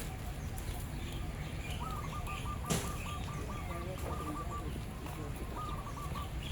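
A bird calling: a fast run of repeated notes about two seconds in, and a shorter run near the end, over steady outdoor background noise. A single sharp click cuts through in the middle.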